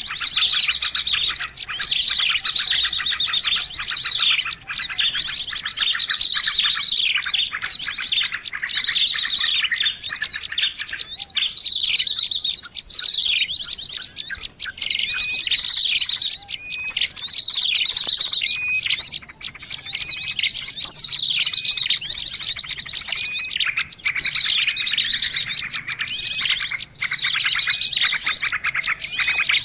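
Small songbirds chirping and trilling without a break, several high calls overlapping with fast trills and quick falling notes. It is a bird-lure (pikat) recording of the kind played to draw small birds in.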